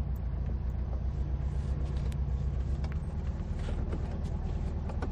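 Car engine running at low revs, heard from inside the cabin as the car creeps along at walking pace, with a steady low drone and a few light ticks.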